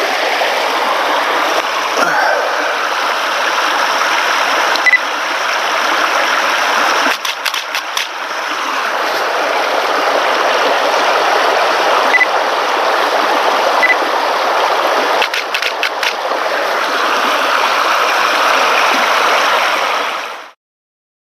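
Creek water rushing steadily, with two quick runs of camera shutter clicks, about seven and fifteen seconds in; the sound cuts off abruptly near the end.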